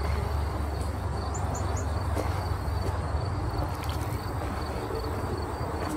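Outdoor background: a steady low rumble with crickets trilling, and a bird chirping three times about a second and a half in.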